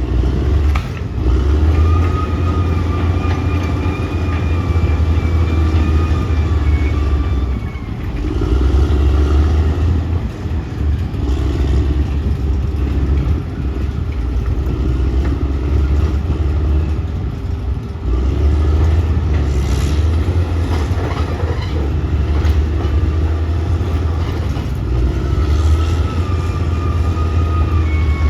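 Caterpillar D6R XL bulldozer's diesel engine running hard under load, a deep steady rumble with a wavering high whine over it; the engine eases off briefly a few times and picks up again.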